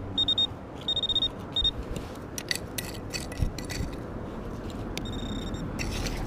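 A metal detector beeping a high tone in short pulses over a target during the first couple of seconds, then scraping and knocking as the spot is dug out of soft ground.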